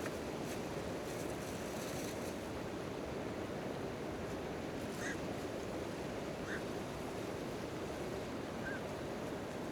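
Steady rain falling on a tent tarp, with a few faint campfire crackles in the first couple of seconds and three brief faint high chirps later on.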